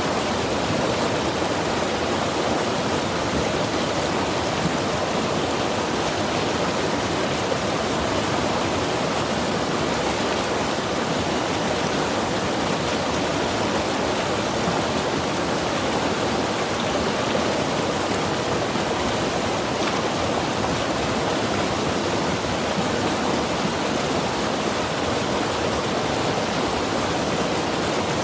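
Mountain river rushing steadily over rocks, a continuous even roar of moving water with no breaks or changes.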